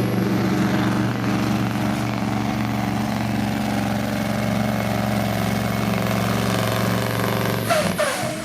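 Supersport-class pulling truck's diesel engine running at a steady speed, cutting off abruptly near the end.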